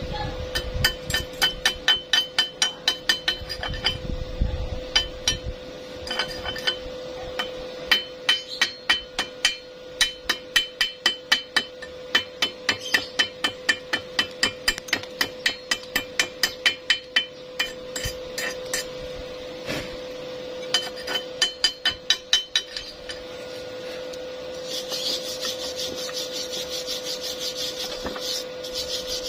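Hammer blows in quick runs of about three or four strikes a second, broken by short pauses, over a steady hum. Near the end they give way to a rhythmic rasping scrape.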